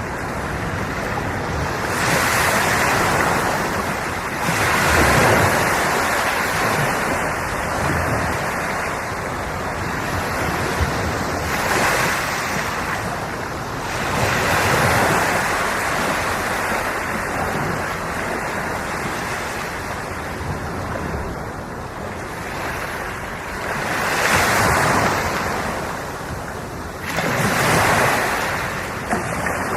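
Ocean waves washing in on the shore, a steady rush of surf that swells louder every few seconds as each wave breaks.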